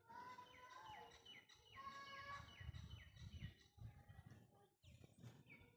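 Faint bird chirping: a quick run of short chirps falling in pitch, about three a second, with a few longer held notes.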